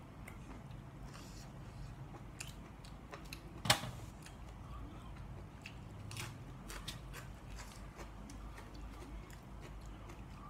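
A person chewing and biting food close to the microphone: soft wet mouth clicks throughout, with one sharper click a little over a third of the way in.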